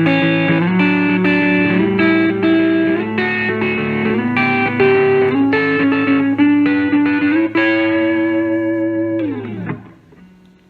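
Electric guitar with a 'Fat Bottom' humbucker pickup played through a Fender Vibrolux Reverb valve amp: a ringing low open-string drone under a run of melody notes. The phrase ends with the notes sliding down and the sound stopping about ten seconds in.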